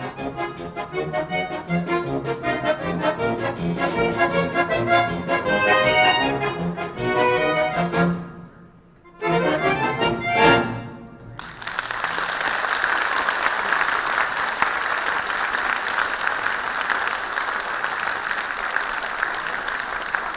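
Youth accordion orchestra playing a fast, rhythmic passage, breaking off for a moment about eight seconds in, then sounding its closing chords. The audience then breaks into steady applause for the second half.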